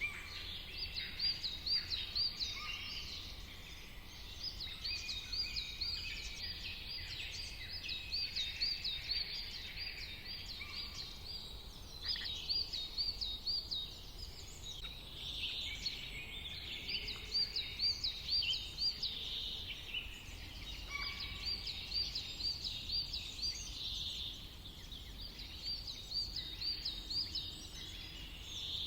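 Several songbirds singing together, one of them repeating a short phrase of rapid, high warbling notes every few seconds among other chirps, over a steady low rumble.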